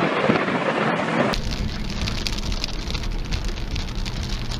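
Steady rain falling during a thunderstorm, an even hiss. About a second in it switches abruptly to a heavier, fuller rain hiss.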